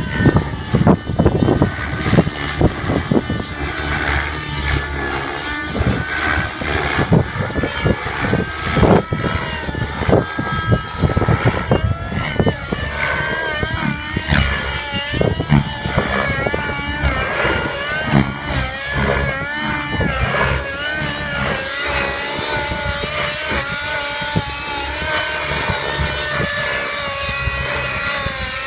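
600-size nitro RC helicopter's glow engine and rotor running in flight. The pitch rises and falls as it manoeuvres, then holds steadier in the last several seconds. Strong gusty wind buffets the microphone in the first half.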